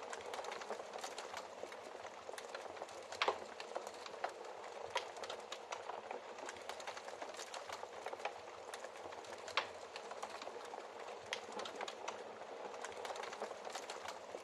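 Wood fire crackling in a fireplace: a steady crackle with many small snaps, and a few louder pops, one about three seconds in and another near ten seconds.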